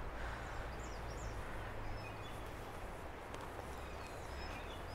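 Faint birdsong outdoors: scattered short chirps and whistles from small birds over a steady low rumble of background noise.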